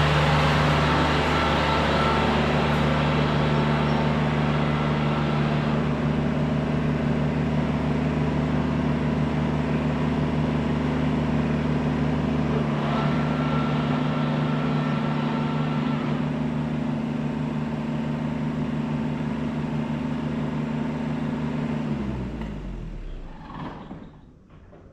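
Kubota tractor's diesel engine running steadily, then shut off about 22 seconds in and winding down to a stop.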